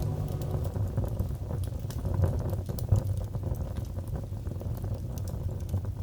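Wood fire crackling in a fireplace: scattered sharp pops and crackles over a steady low rumble of burning.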